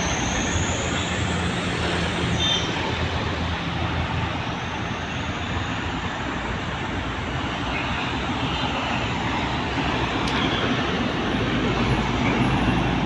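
Heavy truck passing on the road: engine running with tyre and traffic noise, steady throughout, with a faint high whine rising in the first two seconds.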